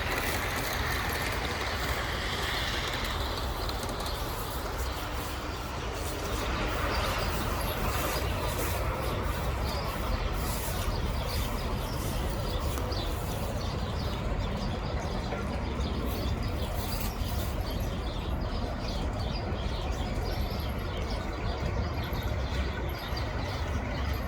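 Garden-scale model train running along its track, with a steady low rumble and a run of short clicks from its wheels on the rails.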